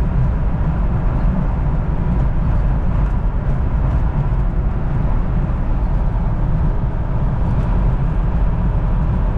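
Steady low rumble inside a Jeep's cabin while cruising at about 60 mph: engine, tyre and wind noise with no change in pitch.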